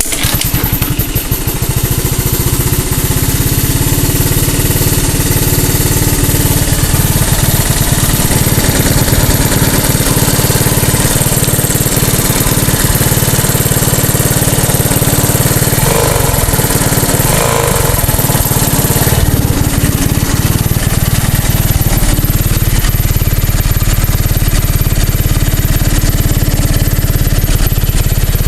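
Three-wheeler's small engine starting back up at once and then running steadily and loud.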